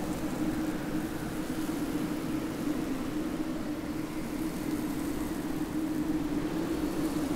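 Steady ambient drone: a constant low hum over an even hiss, unchanging throughout.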